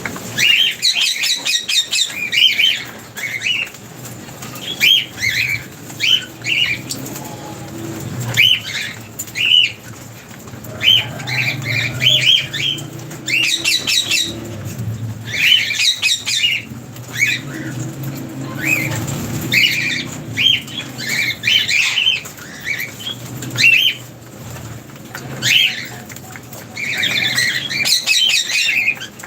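Lovebirds chirping and squawking in quick clusters of short, high calls that keep up with only brief pauses.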